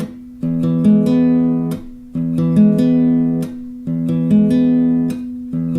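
Acoustic guitar fingerpicking exercise: a few notes are plucked one after another and left to ring, then damped all at once by the picking hand. The cycle repeats about every 1.7 seconds.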